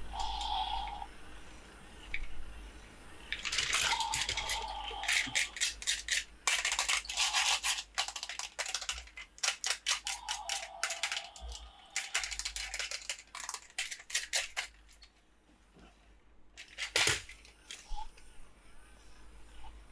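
Toy packaging and plastic dinosaur figures being handled and unboxed: dense runs of crinkles and clicks through the middle, a few brief squeaks, and one sharp snap near the end.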